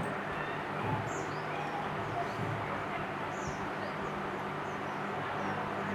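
A small songbird giving a few short, high chirps spaced a second or more apart, over a steady low hum and background hiss.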